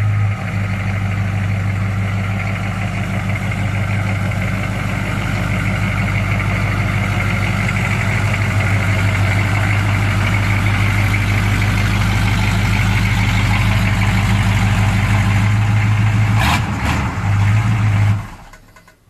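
1984 Chevy Silverado K10 pickup's V8 engine running steadily. A short sharp sound comes near the end, and the engine sound then stops abruptly.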